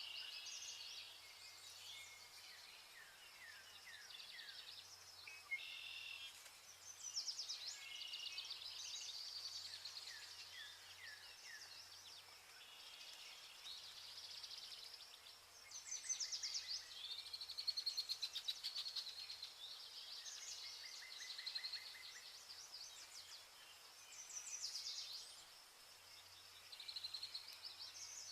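Vernal hanging parrots calling: a busy, overlapping run of high, thin chirps and quick rattling trills that comes and goes in bursts, over a faint steady low hum.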